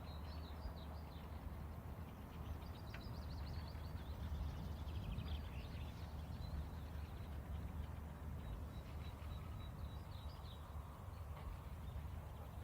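Faint outdoor ambience: a steady low rumble with small birds chirping now and then in the background.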